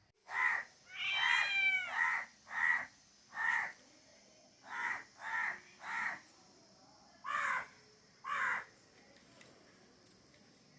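Cat meowing over and over: about ten short meows with pauses between, the second one longer and bending in pitch.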